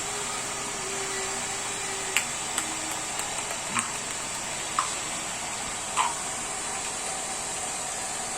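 Hair dryer blowing steadily to keep a ping-pong ball floating in its air stream, with a few light clicks along the way.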